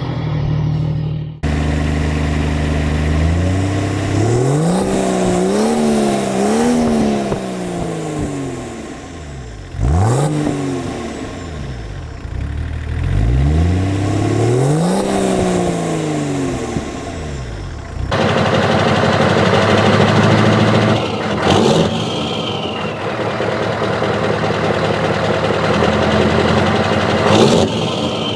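Turbodiesel engine revved up and down several times, its pitch climbing and falling. After a sudden cut about two-thirds of the way in, a diesel engine runs more steadily with a clattery note, and a brief falling whistle comes twice.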